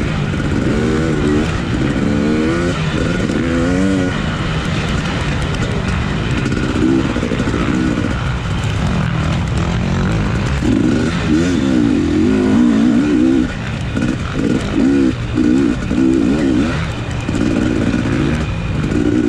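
Off-road racing dirt bike engine being ridden hard, its revs climbing and dropping again and again as the rider works the throttle and gears. The throttle is chopped and reopened several times in quick succession in the middle stretch, over steady wind and riding noise.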